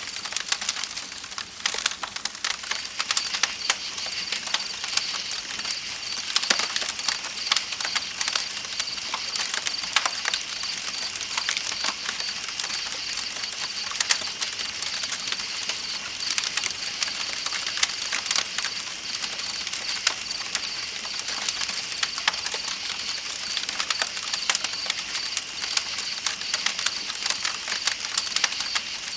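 Campfire crackling with frequent sharp pops, over a steady high-pitched chorus of night insects and the even hiss of flowing river water.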